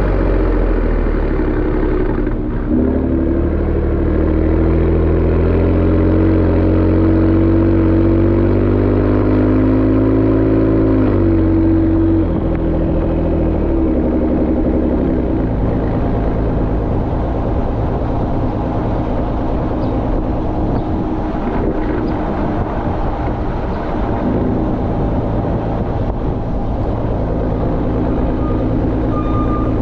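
Exhaust note of a second-generation Ford Raptor's twin-turbo 3.5-litre EcoBoost V6 through a Borla ATAK exhaust while driving. The note rises gently in pitch under throttle, drops suddenly about twelve seconds in, then runs steadier.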